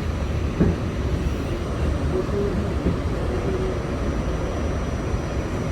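New York City subway train giving a steady low rumble and hum, with one short knock about half a second in.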